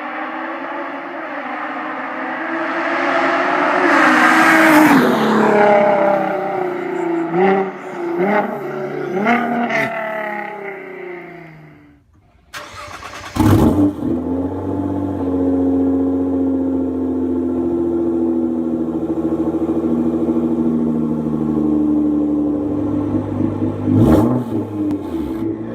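Nissan GT-R R35 twin-turbo V6 with a loud exhaust: the engine revs up hard with rising pitch, shifts through several gears and fades away. Then, after an abrupt break, a sharp loud rev, the engine held at steady revs, and another quick rev near the end.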